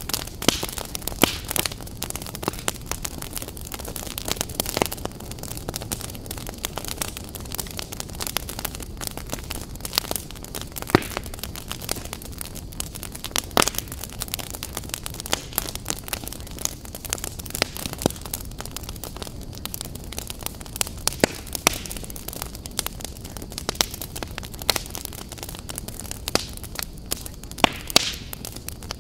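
Fire crackling: a steady hiss with frequent, irregular sharp pops and snaps, a few of them standing out louder than the rest.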